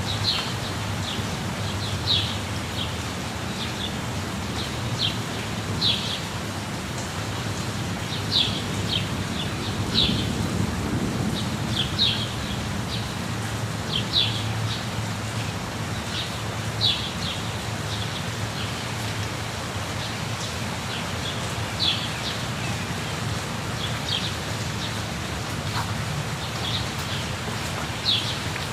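Steady rush of a waterfall, with birds singing short, high chirps every second or two over it.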